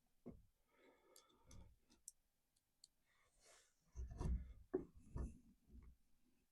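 Faint clicks and knocks of hand tools and hardware being handled, with a cluster of low thumps about four to five seconds in.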